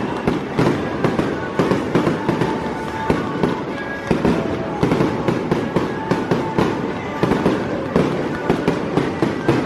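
Fireworks display: a rapid, continuous run of bangs and pops from shells and comets launched and bursting one after another, several a second.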